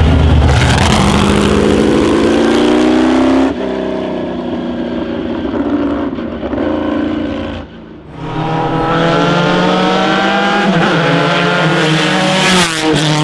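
Classic racing car engine accelerating hard, its pitch climbing as it revs up. There is an abrupt change about three and a half seconds in and a brief dip near eight seconds, then another long rise in revs.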